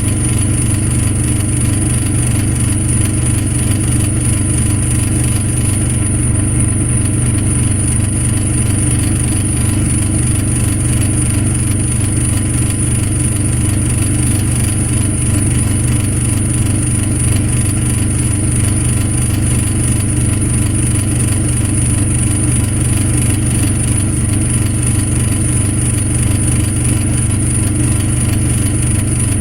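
Truck engine running steadily at an even speed, with no revving, and a steady high-pitched tone over it.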